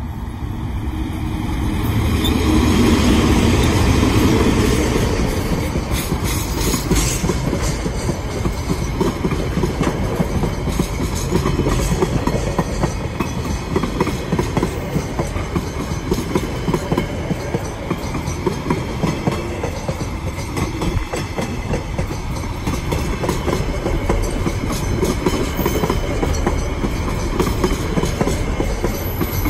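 Freight train passing close by: the diesel locomotive goes by loudest in the first few seconds, then a long string of container wagons rolls past with a steady clickety-clack of wheels over the rails.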